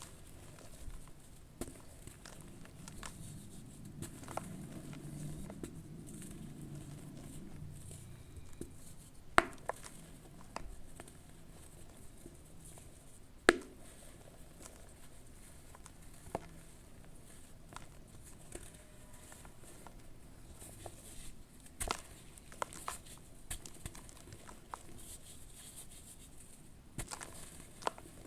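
Charcoal ash lumps crumbling and being dipped in water: scattered soft crackles and crunches, with a few sharp snaps standing out.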